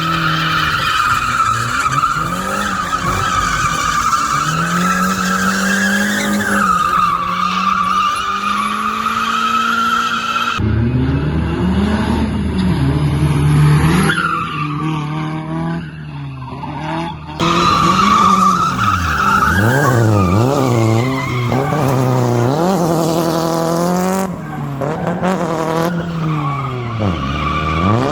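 Drift car sliding: tires squealing in a long, steady screech while the engine revs rise and fall with the throttle.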